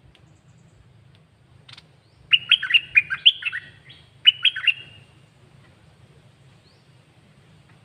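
Caged red-whiskered bulbul singing: one fast phrase of clear, sweeping whistled notes, then a shorter phrase about a second later.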